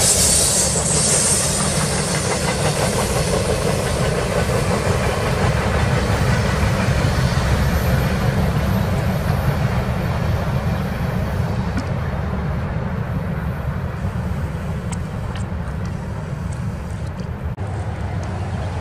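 Freight cars (covered hoppers and boxcars) rolling past on steel rails: a steady rumble of wheels on track. Its hiss thins out in the second half as the cars move away.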